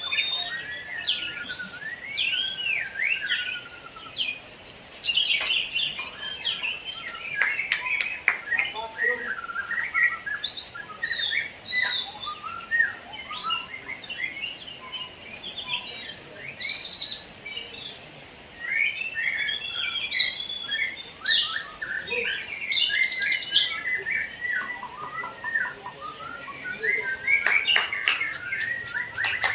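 Many songbirds singing at once in a dense, overlapping chorus of quick chirps, trills and warbled phrases, with scattered sharp clicks.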